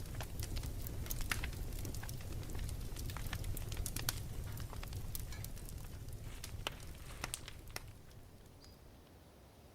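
Campfire crackling: irregular sharp pops and snaps over a low rumble, fading away near the end.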